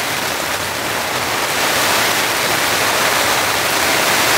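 Heavy rain pouring relentlessly onto the fly of an inflatable dome tent, heard from inside as a loud, dense, steady hiss that swells slightly about a second and a half in.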